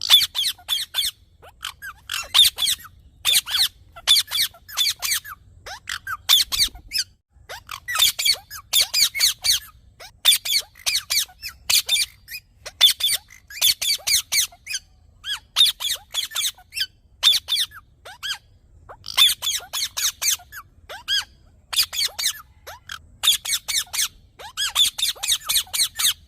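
Green parrot, an Indian ringneck (rose-ringed parakeet), giving shrill, high chirping calls in rapid bursts of several notes, over and over with short pauses between bursts.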